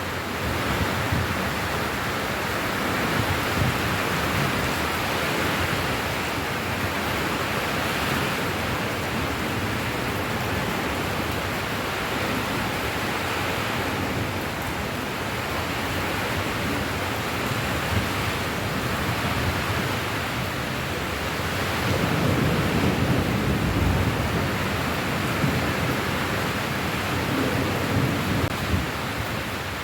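Steady heavy rain, an even hiss of falling water, with a slightly fuller low rumble about two-thirds of the way through.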